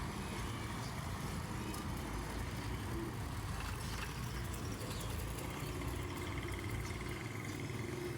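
A truck's engine running steadily, a low, even sound with no breaks.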